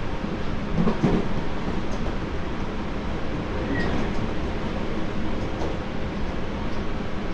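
Running noise inside a Tobu 30000 series electric train's motor car, which has Hitachi IGBT-VVVF traction equipment, heard as a steady rumble of wheels on rail. A couple of low thumps come about a second in, and a brief faint squeak near the middle.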